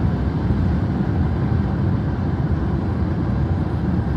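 Steady low rumble of vehicle noise, even in level throughout.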